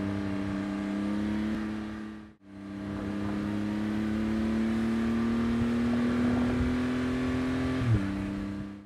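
Porsche 911 GT2 RS's 3.8-litre twin-turbo flat-six running on the move, its note slowly rising in pitch. The sound drops out briefly a little over two seconds in. Near the end the pitch steps down abruptly with a short thump, as the gearbox shifts up.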